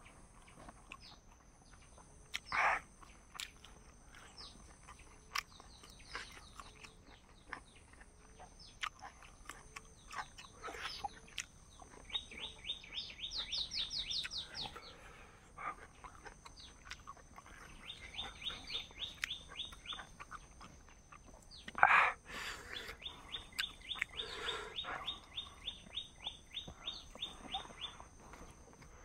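Bird song in fast trills: three runs of quick repeated notes, each lasting a few seconds, the first climbing in pitch at its end. Scattered small clicks and two short, louder sounds come in between.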